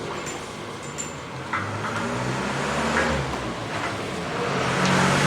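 A motor vehicle's engine running steadily, its low hum shifting a little in pitch, with a few light clicks.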